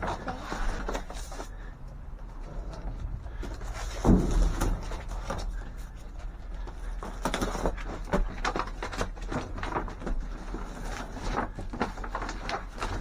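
Salvaged goods being handled and shifted around: a string of knocks, bumps and rustles, with a heavier thump about four seconds in.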